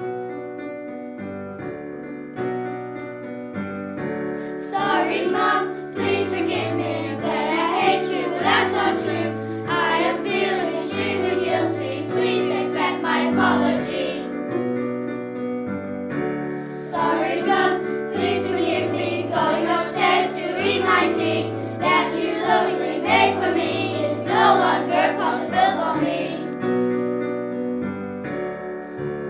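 Children's choir singing a song over piano accompaniment. The piano plays alone for the first few seconds, and the singing breaks off briefly in the middle before coming back in.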